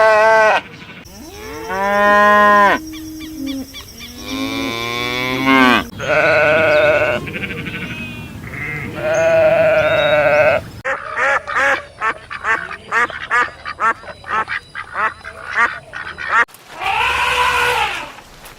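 A quick succession of farm-animal calls: long bleats and other drawn-out calls in the first half, then a fast run of short, clipped calls, and one more long call near the end.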